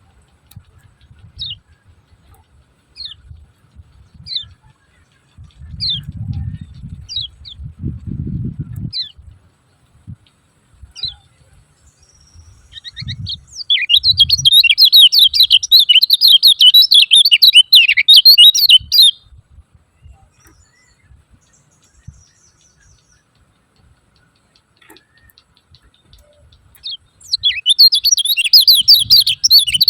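Kecial kuning, a white-eye, giving single sharp 'ciak' chirps every second or two. It then breaks into a long, loud burst of fast twittering, which starts again near the end.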